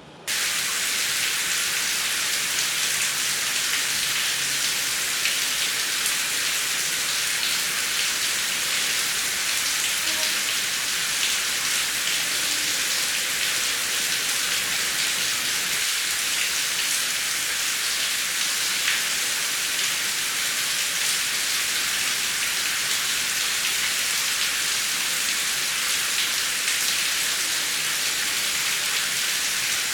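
Heavy rain falling, a dense steady hiss that cuts in suddenly just after the start, with no thunder.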